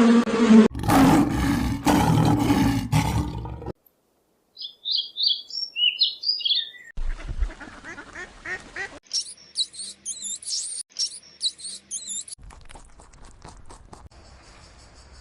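A run of different animal calls, one after another. First comes a loud, low, rough call lasting about three seconds, then a brief silence. After that there are short high bird chirps, and then quick, high bird calls repeated several times.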